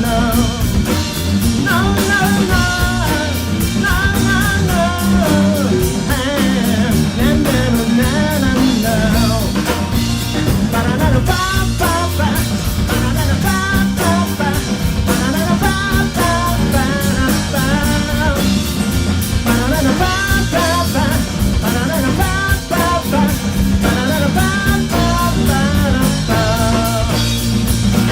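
A live rock trio plays an instrumental stretch: a bending lead melody over bass guitar and a drum kit.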